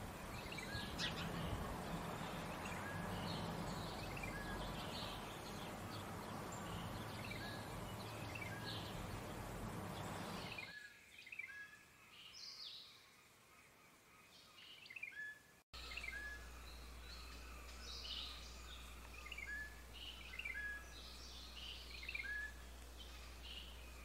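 Small birds chirping: short call notes, many with a quick upward flick, repeating about once a second over a steady outdoor background hiss. The hiss drops away about ten seconds in; after a brief dropout a low steady hum sits under the chirps.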